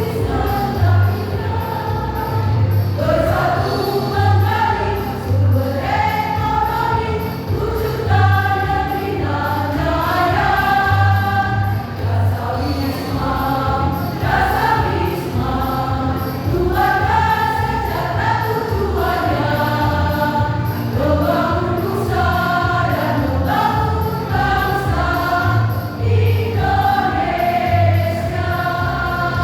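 Choir singing a song in several voices, over an accompaniment with a steady low beat about every one and a half seconds.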